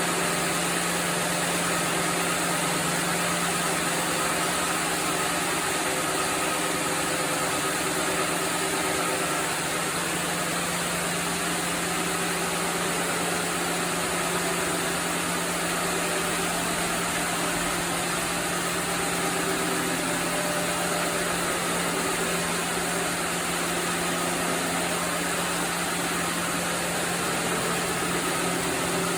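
Sawmill machinery running steadily: a constant mechanical hum under an even high hiss, with no strokes or changes.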